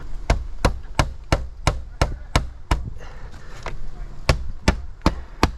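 Hammer driving trim nails by hand, steady strikes about three a second, pausing briefly in the middle before carrying on.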